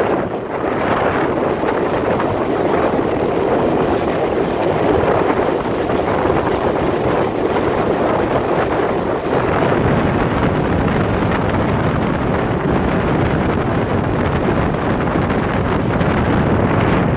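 Alaska Railroad passenger train running along the track, heard from an open window of the moving train: a steady noise of the train and its wheels on the rails, with wind buffeting the microphone.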